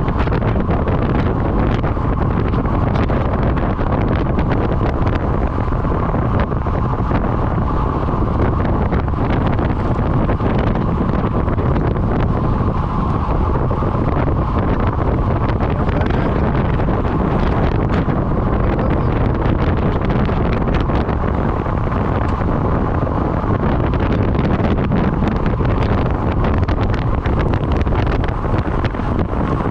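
Wind rushing and buffeting against the microphone, a steady loud noise with constant crackling.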